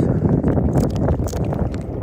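Wind buffeting the microphone, a steady low rumble, with two short hissy sounds a little under a second apart in the middle.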